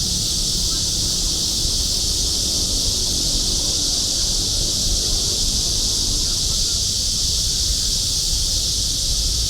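Cicadas singing in a steady, unbroken high-pitched chorus, over a low rumble.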